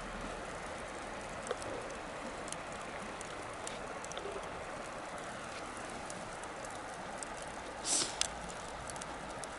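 Wood bonfire burning with a steady hiss and scattered sharp crackles, and a louder pair of pops about eight seconds in.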